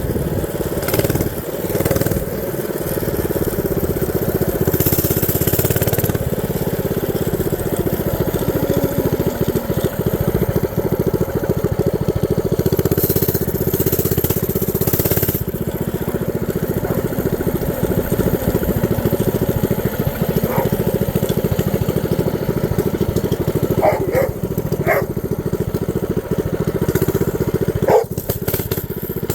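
Predator 212cc non-Hemi single-cylinder engine on a mini bike, with a straight-pipe exhaust, running steadily at idle.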